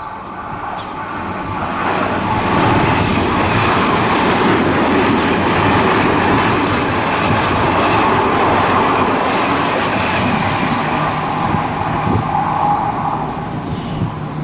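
Odakyu 30000 series EXEα electric limited express passing through the station, growing louder as it approaches, then a sustained loud rush of the train going by that eases slightly near the end.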